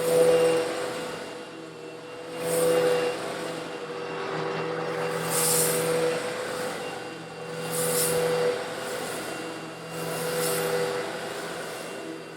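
Eureka vacuum cleaner running steadily with a constant motor hum while sucking up small coarse stone granules, with a louder rush of hiss about every two and a half seconds, five times.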